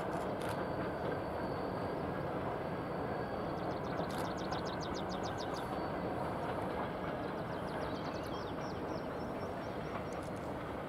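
Heavy freight train hauled uphill by three VL11M electric locomotives, heard from far off as a steady low rumble.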